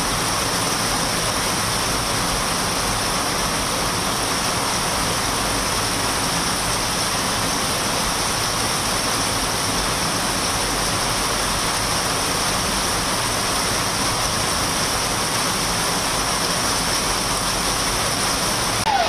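Steady hiss of heavy rain, an even, unbroken wash of noise.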